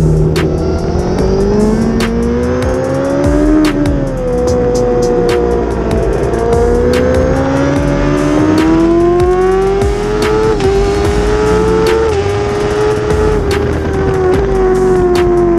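Kawasaki ZX-10R's inline-four engine at racing speed, heard from the bike itself: the pitch climbs hard through the gears with short dips at the upshifts, then falls away into the corners, several times over.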